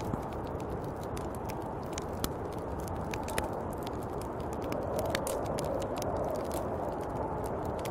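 Snowstorm wind, a steady low rush with a howling band that swells about five seconds in, with many scattered sharp crackles over it.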